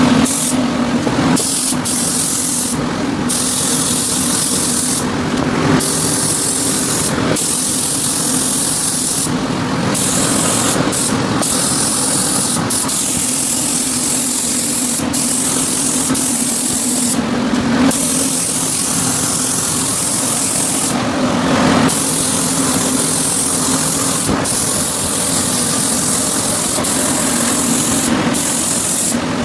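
Paint spray gun hissing as the first coat goes onto steel axe blades, the hiss cutting off briefly again and again as the trigger is released between passes. A steady hum runs underneath.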